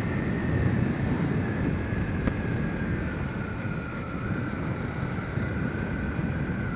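Wind rushing over the microphone together with the Honda CB300R's single-cylinder engine and road noise as the motorcycle is ridden, with a thin whine that slowly drops in pitch.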